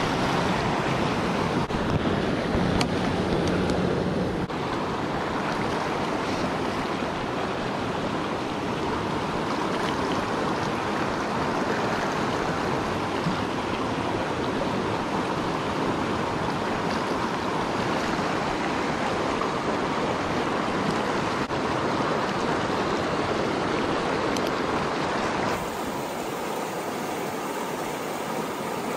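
Mountain creek water rushing, a steady noise throughout; near the end the sound shifts slightly, with less low rumble.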